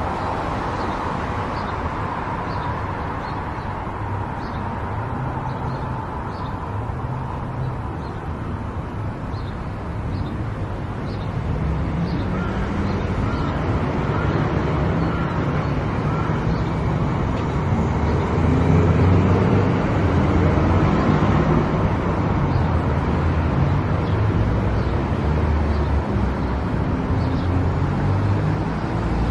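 Car driving at highway speed: steady road and tyre noise with a low rumble that grows louder about a third of the way in.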